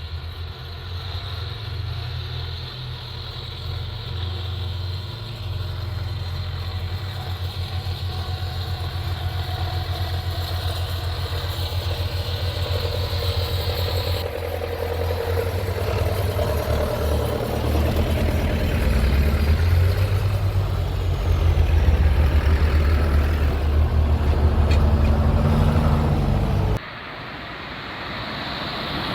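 Tractor engines running in a low rumble that grows steadily louder. Near the end the sound drops abruptly to a quieter engine.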